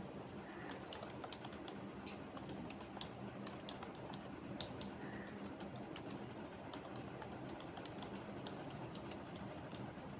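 Computer keyboard being typed on in irregular runs of key clicks, over a steady low background hum.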